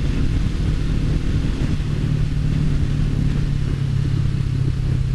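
Honda CBR500R's parallel-twin engine running at a steady pitch under a low rumble, picked up by a mic mounted on the bike while riding.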